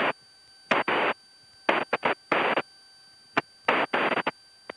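Cockpit headset-intercom audio: bursts of hiss that cut in and out abruptly several times, over near silence between them, as the intercom opens and closes on microphone noise.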